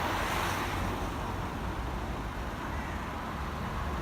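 Road traffic going by: a steady rumble and tyre hiss of cars, a little louder in the first second.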